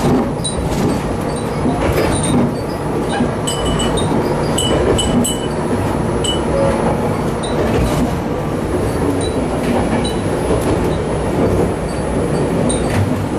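Tsugaru Railway diesel railcar running along the line, heard from inside the cabin: a steady rumble with occasional knocks and scattered short, high ringing tones.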